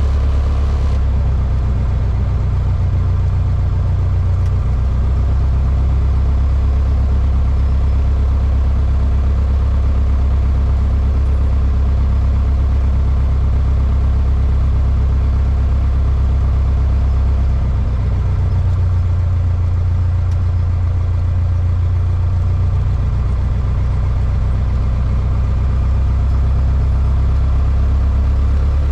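Cessna 152's four-cylinder Lycoming O-235 engine and propeller running steadily, heard inside the cockpit as a loud, low drone. Its pitch shifts slightly about four seconds in and again around eighteen seconds.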